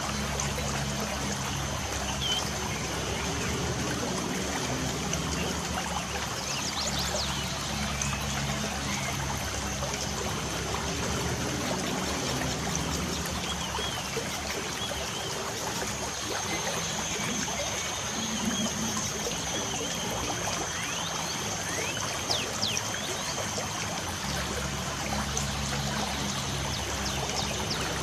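Light rain falling steadily with water trickling, and birds giving short chirps now and then.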